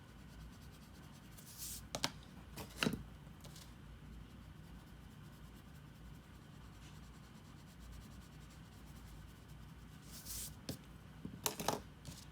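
Drawing tool working on paper: quiet strokes with a few short, sharp scrapes and taps, about two seconds in and again near the end, over a steady low hum.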